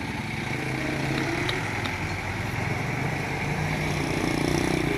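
Diesel engine of heavy earthmoving machinery running steadily, rising in pitch about four seconds in.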